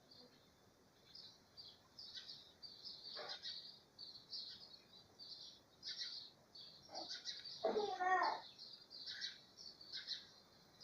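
Faint, repeated chirping of small birds, with a brief louder wavering call about eight seconds in.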